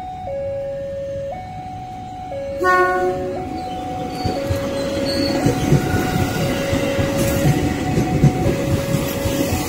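Electronic two-tone warning alarm switching between a low and a high tone about once a second, like a railway level-crossing signal. A train horn blows briefly a little under three seconds in, then a passing train's rumble and wheel noise build and grow louder.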